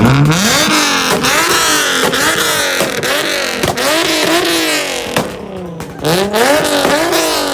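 Car engine revved hard over and over in quick throttle blips, its pitch rising and falling about once or twice a second, with sharp cracks between the revs.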